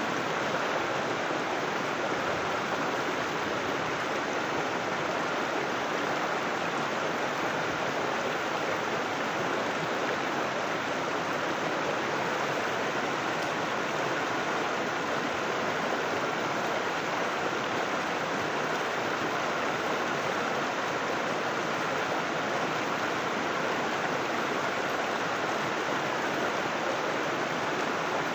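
River water flowing and splashing steadily, an even rushing sound without breaks or changes.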